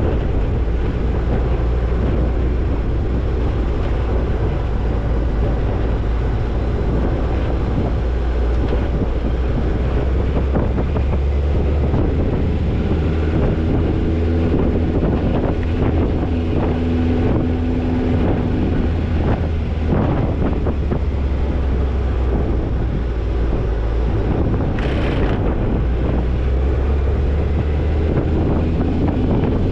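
Toyota Tercel 4WD wagon driving on a dirt off-road trail: a steady low engine and drivetrain rumble.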